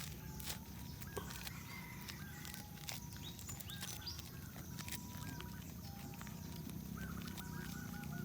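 A dog chewing bread, with scattered sharp clicks and smacks, while birds call with short repeated notes in the background.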